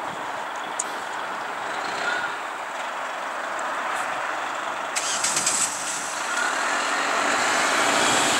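Road traffic noise from passing cars and trucks, steady and growing louder toward the end, with a short hiss about five seconds in.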